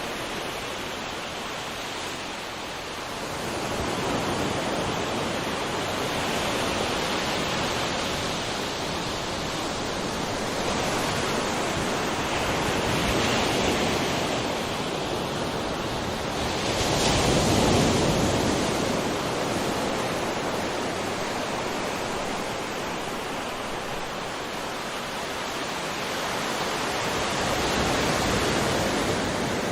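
Sea waves breaking and washing on a shore, a steady rush that swells and ebbs every few seconds, the biggest wave about two-thirds of the way through.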